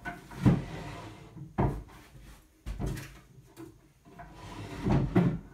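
Rummaging through a wooden desk: a series of wooden knocks and scrapes as things are moved and a drawer is handled. The loudest knocks come about half a second in and again near the end.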